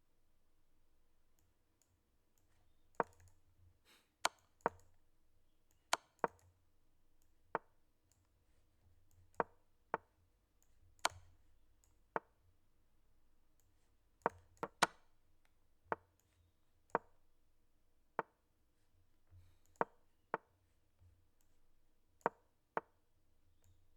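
Sharp, irregular clicks of moves being made in a fast online chess game, about one a second and sometimes two in quick succession, as the player moves quickly to win on time. A faint steady hum lies underneath.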